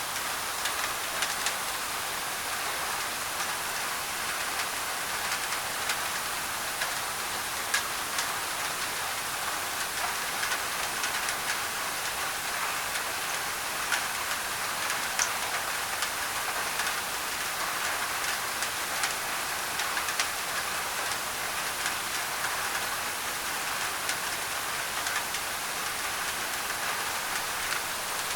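Steady heavy rain falling on a thin tin roof: an even hiss with many small sharp drop taps scattered through it.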